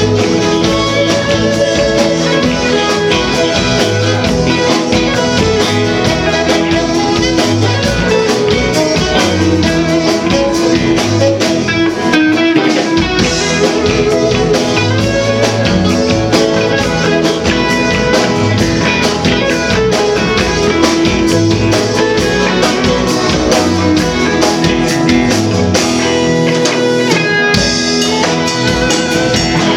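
A band playing an instrumental stretch of a song, guitar over a steady drum-kit beat.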